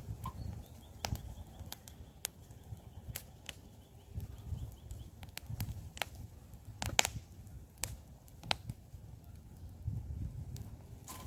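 Campfire crackling, with irregular sharp pops and snaps, the loudest about seven seconds in, over a low rumble.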